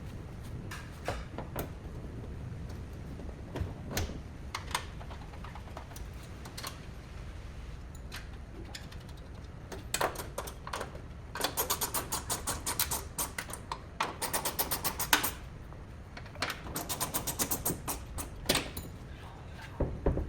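Scattered single clicks and knocks, then two runs of rapid, even clicking at about eight to ten clicks a second, like a ratchet.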